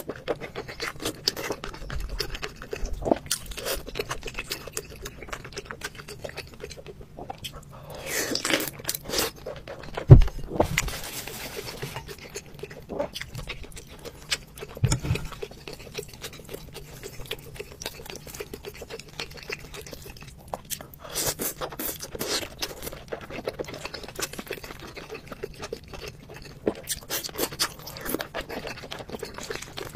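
Close-miked eating sounds: chewing, slurping and crunching of crab and rice, with scraping of utensils on the dishes. A single heavy thump about ten seconds in, and a smaller one a few seconds later.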